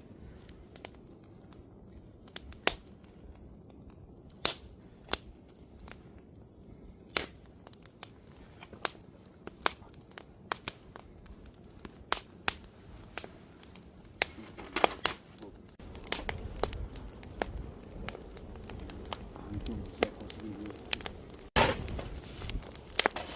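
Wood campfire crackling, with sharp irregular pops and snaps a few times a second. About two-thirds of the way in, a fuller low rumble of the flames joins the crackle.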